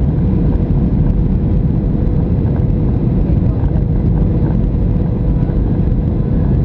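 Steady cabin noise of a Boeing 737-700 heard from a seat inside the cabin: a low, even rumble from the CFM56-7B engines, with a steady hum running through it.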